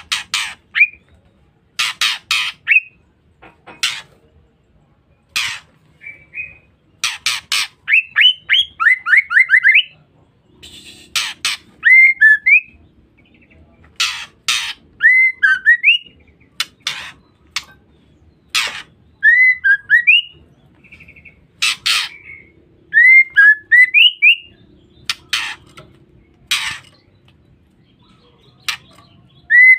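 Female white-rumped shama (murai batu) calling: short harsh, rasping chatter notes repeated in irregular bursts, mixed with quick rising whistled notes.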